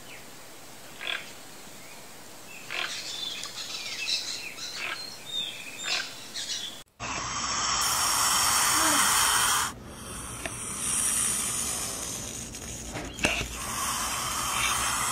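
Short, scattered bird calls and chirps over outdoor ambience. About seven seconds in, the sound cuts to a steady rushing noise, loudest for the next few seconds, with a click or two near the end.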